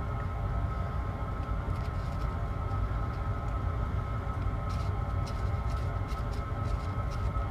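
Engine running steadily at a constant speed, with a few light clicks about five to six seconds in.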